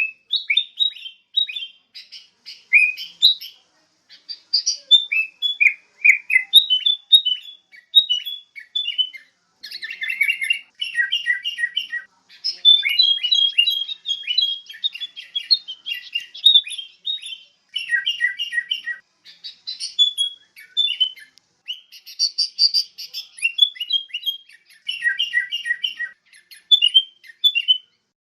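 Sooty-headed bulbuls (kutilang) calling and singing: runs of short, quick chirping notes in phrases, with brief pauses between them.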